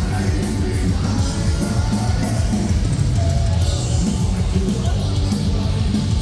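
Live metalcore band playing loud and distorted, with heavy low guitars, crashing cymbals and drums, and a singer yelling over it, heard through a concert crowd recording.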